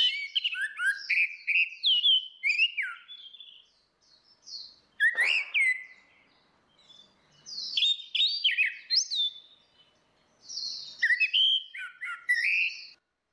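Orange-headed thrush singing: quick phrases of clear whistled notes that glide up and down, in three bursts with short pauses between.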